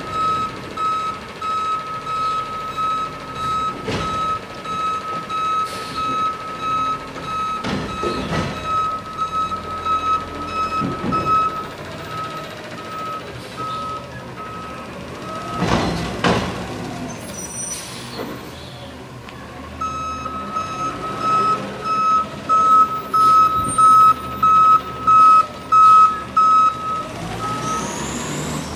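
Garbage truck's reversing alarm beeping steadily over the truck's running engine. The beeping stops for a few seconds midway, with a short loud hiss, then starts again louder.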